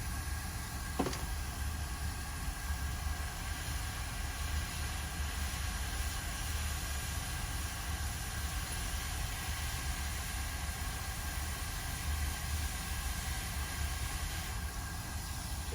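Steady hiss of air with a low hum from electronics rework bench equipment running, with a single sharp click about a second in.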